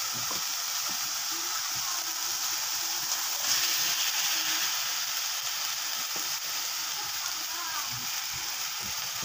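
Chili and shallot balado paste frying in a wok, a steady sizzle that grows a little louder and brighter about three and a half seconds in as raw shrimp go into the pan.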